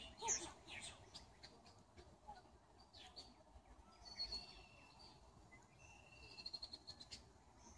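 Faint songbird calls: a few short high chirps and thin high whistled notes, twice in the second half, over quiet outdoor background.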